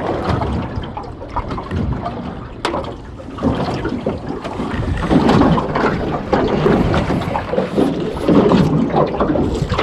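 Wind buffeting the microphone over open water, with gusty rumbling noise and water sounds, and one sharp click about three seconds in.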